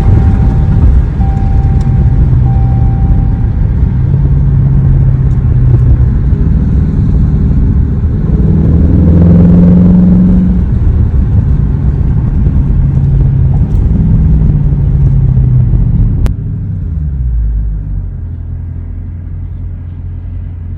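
V8 muscle-car engine and exhaust rumbling loudly, the revs rising briefly near the middle. About three-quarters of the way through it drops abruptly to a quieter, lower steady idle.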